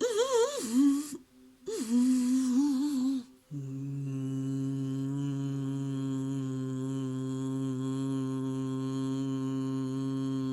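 Sound-healing vocal toning: about three seconds of breathy, wavering vocal sounds with sliding pitch, then a long, steady hum-like drone with many overtones, held without a break from about three and a half seconds in.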